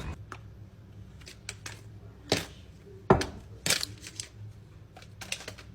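Irregular sharp clicks and knocks, about a dozen, the loudest about three seconds in, over a faint low hum.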